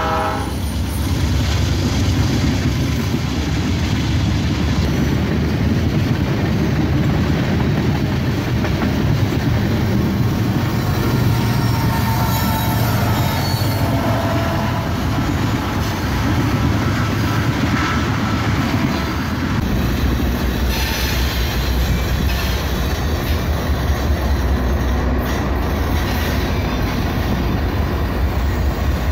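Freight train passing close by: the steel wheels of a string of tank cars rumbling along the rails, with faint brief wheel squeal. About two-thirds of the way in the sound changes to a heavier, deeper rumble as a GE AC44C6M diesel locomotive passes close by.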